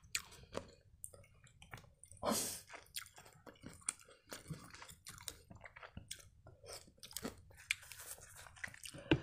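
Close-miked mouth chewing pickled ginger: soft wet chewing with many small mouth clicks. There is a short hiss about two seconds in and a sharper click near the end.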